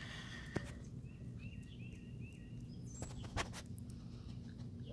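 Low steady background noise with a bird giving a quick run of four short chirps about a second and a half in, plus a few faint clicks.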